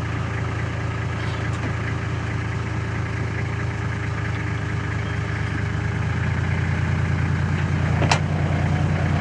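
Toyota Land Cruiser engine running at low revs, taking more load and growing louder about six seconds in as the wedged 4WD is eased forward on the rocks. There is a single sharp knock near the end.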